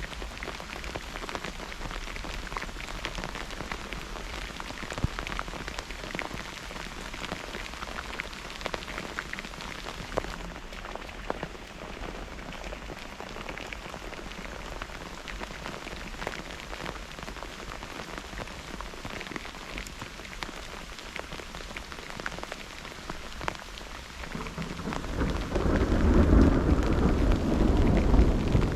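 Steady rain falling, with scattered sharp drops. About 25 seconds in, a loud, deep roll of thunder builds and rumbles on.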